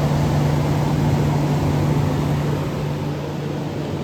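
1984 Carrier Sierra 17,900 BTU window air conditioner running: a steady rush of fan air over a constant low hum.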